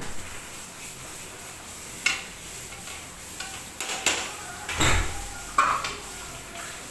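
A ladle stirring and knocking against a large cooking pot, several sharp clanks over a steady sizzle of frying in oil.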